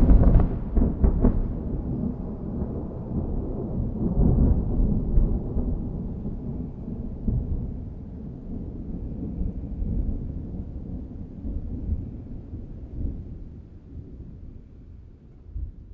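Thunder: a sharp crack right at the start, then a long low rumble that slowly dies away.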